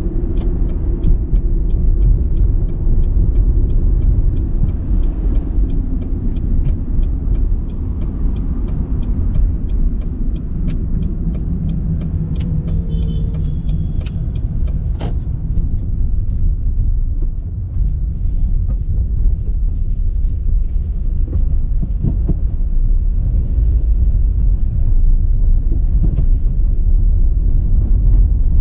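Car driving, with a steady low rumble of engine and tyres. An even clicking, about two clicks a second, runs through the first half and stops about halfway.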